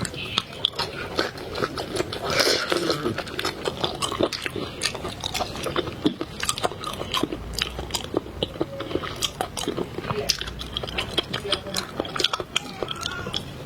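Close-miked ASMR mouth sounds of eating seafood: steady chewing with many irregular sharp crunches and wet clicks.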